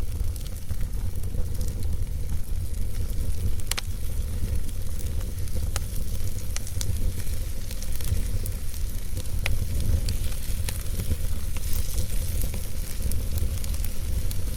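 Logs burning in a fireplace: steady crackling and hiss over a low rumble, with a few sharp pops scattered through it.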